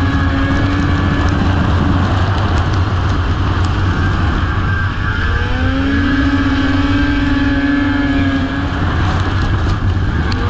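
Racing snowmobile engines running hard under a steady roar of noise. A held engine note rises and holds at the start and again about halfway through, as sleds rev through the track.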